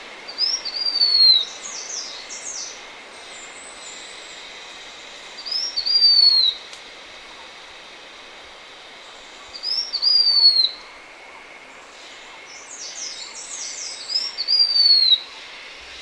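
Blue-winged minla singing: four phrases about four seconds apart, each a short upward note followed by a longer down-slurred whistle. The first and last phrases carry a quick chatter of higher notes. A steady faint hiss runs underneath.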